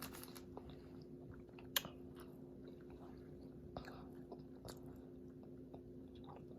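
Person quietly chewing a bite of crispy fried chicken sandwich, with a few soft crunches and mouth clicks spaced out over the stretch. A faint steady hum lies underneath.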